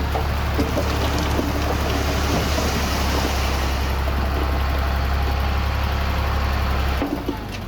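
Heavy diesel construction machinery running steadily with a deep engine drone and scattered metallic clanks. The low drone drops away suddenly near the end.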